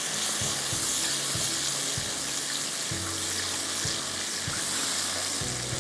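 Chopped tomatoes and onions sizzling in hot oil in a wok, a steady hiss, as they are stirred with a silicone spatula.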